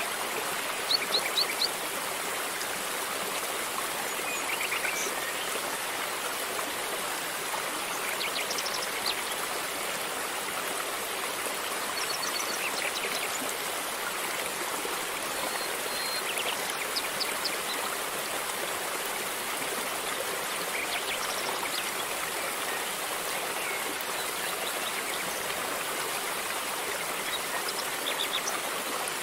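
River water flowing over stones in a steady rush, with short high ticks or chirps heard now and then.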